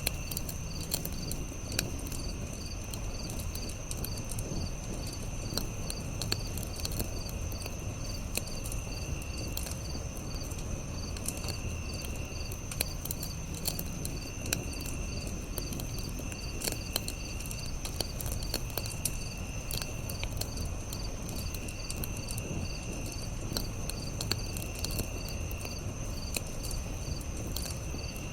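Campfire crackling with scattered sharp pops over a low steady rumble, with crickets chirping steadily and a second insect trilling in short bursts about every two seconds.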